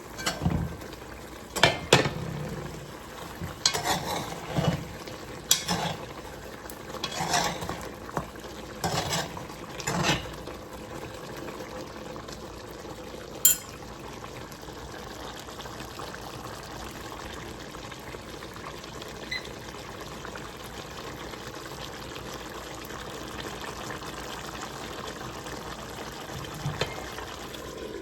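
Spoon knocking and scraping in a pot as chicken is stirred, a dozen or so strokes over the first ten seconds and one sharp clink a few seconds later. A steady cooking hiss from the pot runs underneath.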